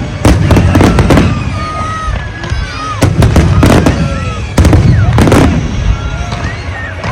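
Large aerial fireworks display: rapid volleys of loud bangs, each trailed by a low rumble. The volleys come in clusters with short lulls about two seconds in and again near the end.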